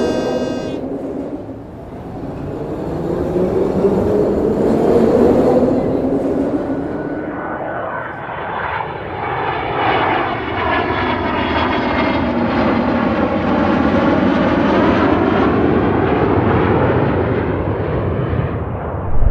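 Airplane flying past, a cartoon sound effect: steady engine noise with a sweeping, wavering whoosh that swells and fades as it passes.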